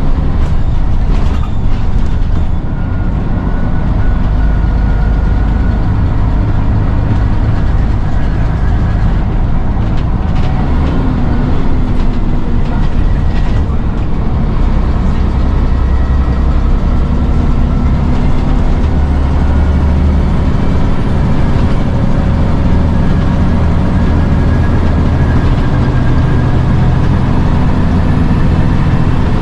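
Scania N94UD double-decker bus under way, heard from on board: its five-cylinder diesel makes a steady low drone, and its tones rise slowly in pitch as it pulls along. A few brief rattles come near the start and again around ten seconds in.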